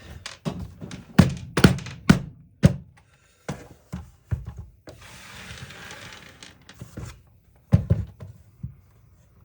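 Knocks and clatter of a power tool's housing and parts being handled and set down during disassembly: a quick run of sharp knocks, then a short rustling hiss about five seconds in, then two more knocks near the end.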